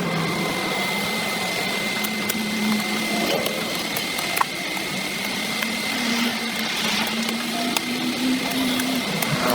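A small motor running steadily, its hum wavering slightly in pitch, with scattered sharp ticks over it.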